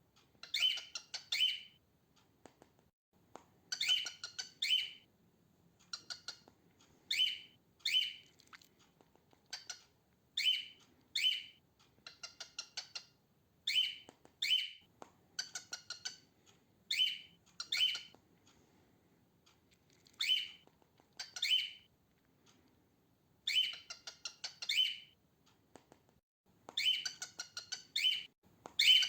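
Female cockatiel calling: short, high calls in quick clusters of two to five, repeated after pauses of a second or two.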